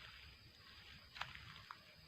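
Near silence: faint outdoor background, with one short faint crackle just past the middle and a smaller one soon after.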